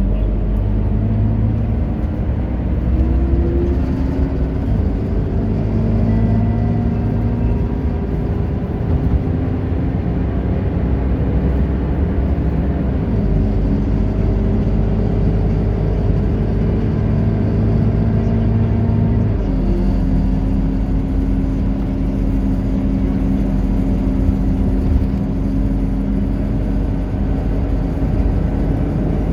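Scania K230UB city bus's diesel engine running under way, a steady deep drone whose pitch rises about three seconds in and shifts again about a third and two-thirds of the way through as the engine speed changes.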